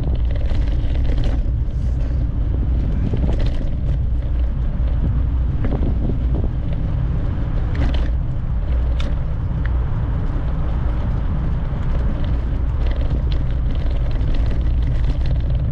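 Steady low rumble of wind buffeting the microphone while riding a bicycle, with a few brief clicks and rattles scattered through it.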